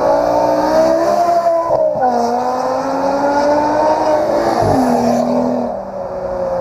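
A car engine accelerating hard through the gears. Its pitch climbs, drops sharply at an upshift about two seconds in, climbs again, and drops at a second shift near five seconds.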